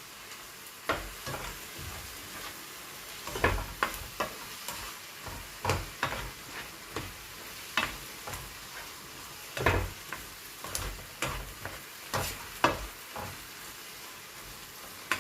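Seasoned chopped tomatoes sizzling in a frying pan while being stirred. A steady sizzle runs under the irregular scrapes and knocks of the utensil against the pan, about one every second.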